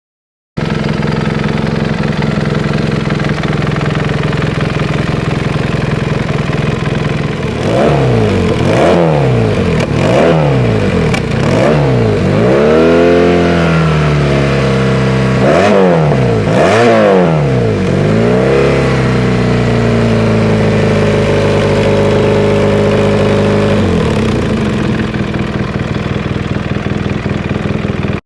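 BMW R 1200 GS boxer-twin engine running through an aftermarket exhaust. It idles, then is revved in a series of quick throttle blips that rise and fall between about 8 and 19 seconds in, holds a steady raised idle, and drops back to idle about 24 seconds in.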